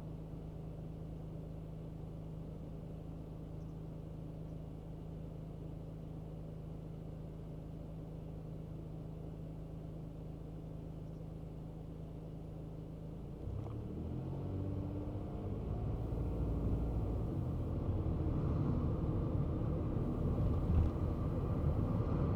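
Kei car's small engine idling steadily, then about two-thirds of the way through it revs up, rising in pitch and getting louder as the car accelerates, with road noise growing under it.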